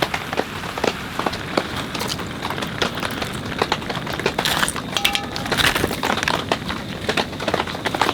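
Heavy rain drumming on tent or tarp fabric: a dense, irregular patter of sharp drop hits. A brief ringing clink comes about five seconds in.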